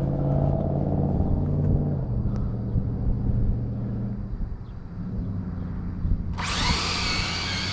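A low steady rumble, then about six seconds in the high-pitched whine of the electric motors of RC drag cars cuts in suddenly and holds at full power as the Losi and Traxxas cars launch down the track.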